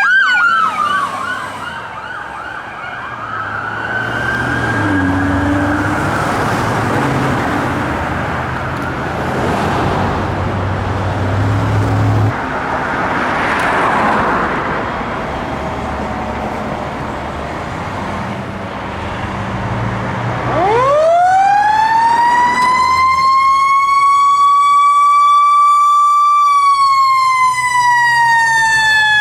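Emergency vehicle sirens and traffic. A siren wail falls away at the start, with vehicle engines and road noise in between. About two-thirds of the way in, a fire engine's siren winds up slowly to a steady pitch, then begins winding down near the end.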